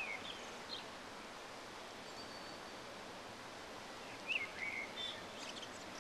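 Outdoor ambience: a steady soft hiss with a few short bird chirps, a couple near the start and a small cluster about four to five seconds in.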